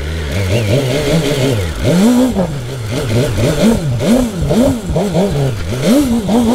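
Sport motorcycle engine running low for about two seconds, then revved up and down in quick repeated blips, about one every 0.6 s, as the bike is ridden across grass.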